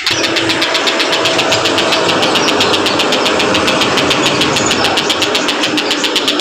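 Tengkek Buto kingfisher calling in a rapid, even train of sharp notes, about ten a second. Underneath is a rumbling noise that sets in suddenly at the start.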